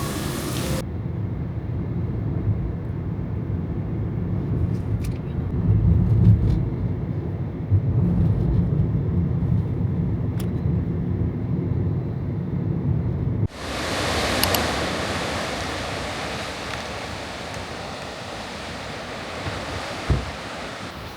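A low, uneven rumble, then after a sudden cut about two-thirds of the way in, the hiss of sea surf washing against a rocky coast, slowly fading.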